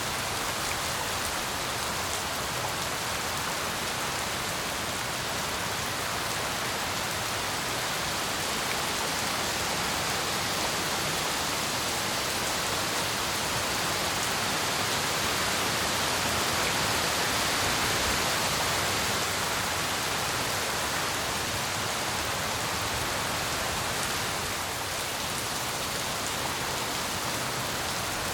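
Steady heavy tropical rain falling, a dense even hiss of drops that swells a little around the middle and eases slightly near the end.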